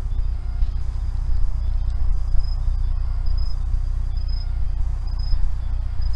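An insect chirping on one high pitch, about once a second, over a steady low rumble.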